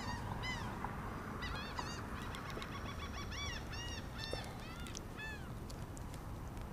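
Birds calling: a rapid string of short, high, arched chirps, several a second, over a steady low rumble. The calls stop about five seconds in.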